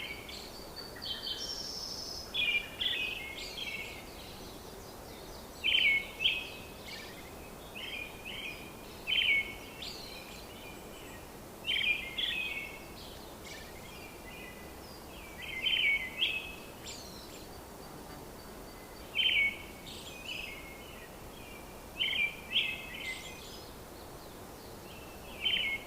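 Birds in an aviary calling in short chirping phrases every three to four seconds, often two in quick succession, over a steady background hiss.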